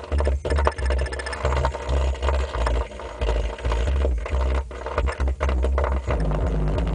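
Music played loud through a car's aftermarket sound system, dominated by a pulsing bass line from the subwoofers in a steady rhythm, with a rattly, buzzing edge on top.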